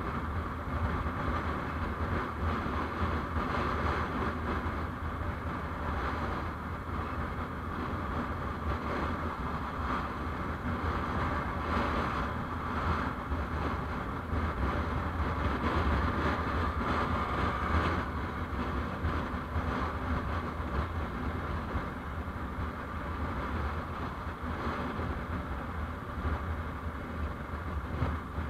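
Steady vehicle running noise on the road: a constant low rumble with road and engine noise and no distinct events.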